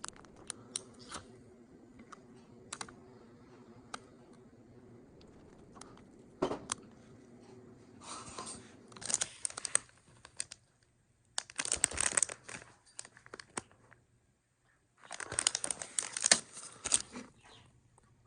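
Small plastic lighter parts being handled and worked apart: scattered light clicks, then three bursts of rattling and scraping, the last two the loudest.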